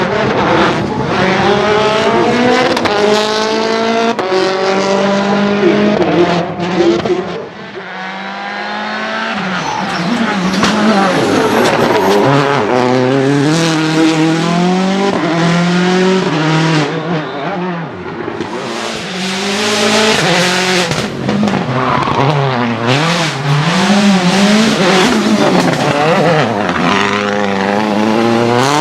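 Citroën C4 WRC rally car's turbocharged four-cylinder engine at full throttle through the gears. The pitch climbs and then drops sharply at each shift, again and again, with a brief lift off the throttle about a quarter of the way through.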